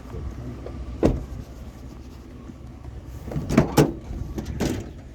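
Vehicle running with a steady low rumble, broken by a few sharp knocks and clunks: one about a second in, two close together past three seconds and one more near the end.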